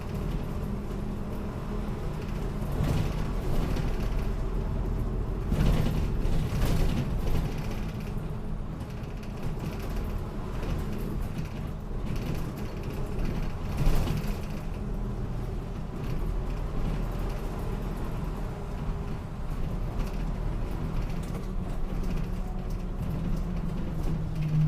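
Interior of a route bus on the move: the engine runs with a steady low hum under creaks and rattles from the body and fittings, with a few louder jolts about 3, 6 and 14 seconds in.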